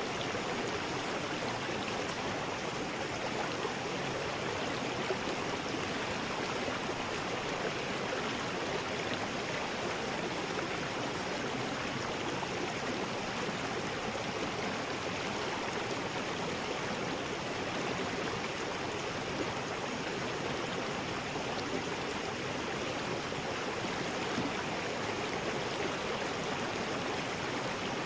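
River rapids: fast water rushing over rocks in a steady, unbroken roar.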